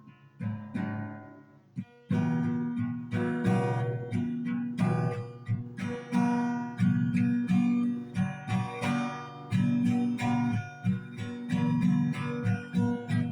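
Acoustic guitar music: a few single plucked notes, then steady strummed chords from about two seconds in.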